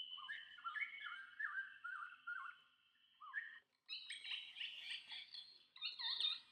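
Recorded jungle bird calls played from the small speaker of the Usborne Jungle Sounds sound book: a steady whistle-like note under a run of short falling calls, then after a brief pause a second, denser burst of calls.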